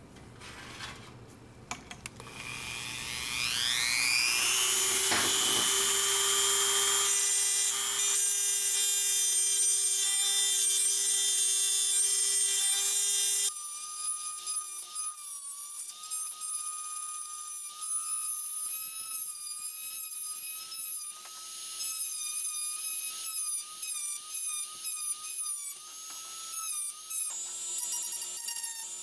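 Small electric power tool spinning up to speed with a rising whine, running steadily, then about halfway through changing to a higher, wavering pitch with rapid ticking as it works the metal.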